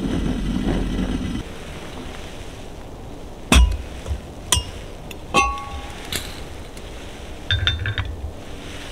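A low steady rumble that cuts off about a second and a half in, then a handful of sharp knocks and clicks of hard objects being handled, a couple with a brief metallic ring. Near the end comes a short quick rattle of clinks.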